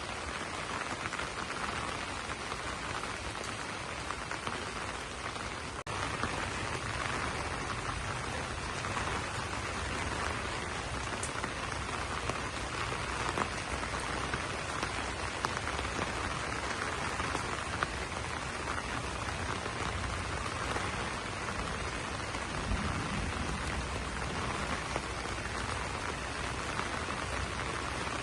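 Rain falling steadily on banana leaves, with scattered louder drops; it grows a little louder about six seconds in.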